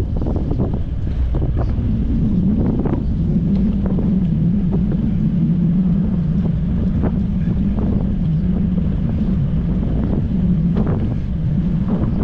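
Wind buffeting the microphone during a ride, a loud low rumble with scattered brief knocks. A steady low hum runs under it from a couple of seconds in.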